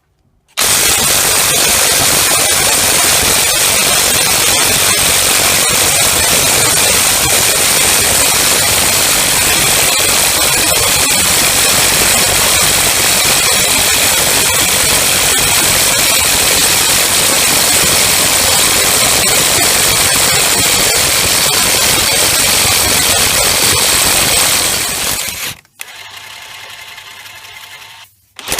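DeWalt DCF894H 20V cordless impact wrench hammering continuously for over twenty seconds, a loud rapid clatter as it works against a stubborn fastener. Near the end it drops to a much quieter steady running sound, then gives a short loud burst right at the end.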